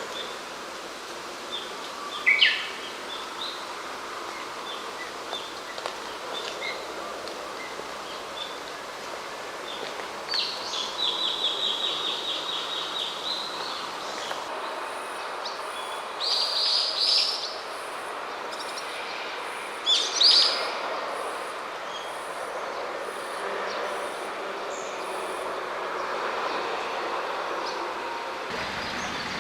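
Songbirds calling over the steady outdoor hum of a rice paddy landscape: a sharp call a couple of seconds in, a fast even trill lasting a few seconds midway, and two louder calls later on.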